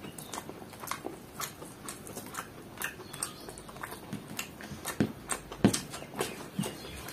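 Close-up eating sounds: chewing and wet mouth smacks on a mouthful of rice and butter chicken, with fingers mixing rice and gravy on a paper plate. Irregular clicks throughout, the loudest a little before the end.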